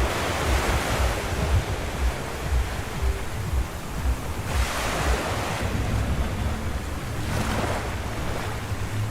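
Ocean surf washing onto a beach, swelling three times as waves break, with wind buffeting the microphone in a low rumble.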